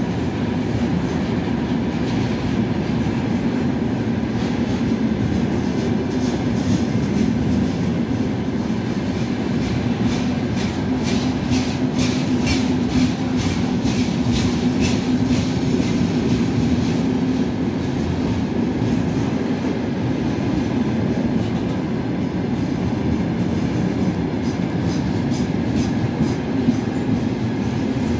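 Long freight train of open-top gondola wagons rolling past steadily: a continuous rumble of steel wheels on rail, with runs of clacking as the wheelsets cross the rail joints, strongest in the middle and again near the end.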